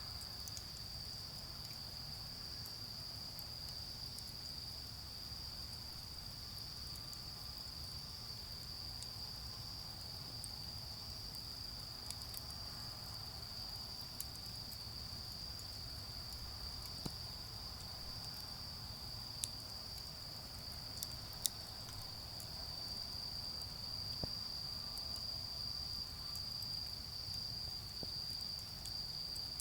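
Autumn crickets chirping in a steady, continuous high trill. About half a dozen sharp crackles from a burned-down charcoal fire are scattered through the middle, and a low rumble of distant road traffic runs underneath.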